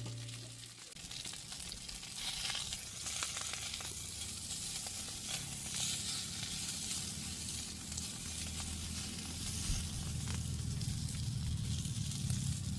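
Food frying in hot oil, a steady sizzle with fine crackling.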